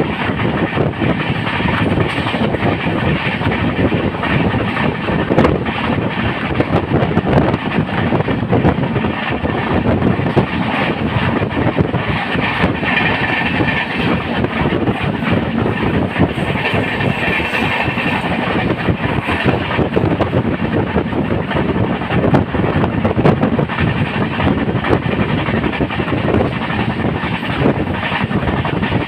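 Jan Shatabdi Express passenger train running along the track: a steady, continuous noise of the coaches' wheels on the rails.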